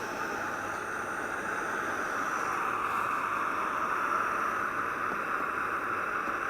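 Alpkit Brukit gas canister stove (a Jetboil-style burner) burning with a steady hiss while heating water for a brew.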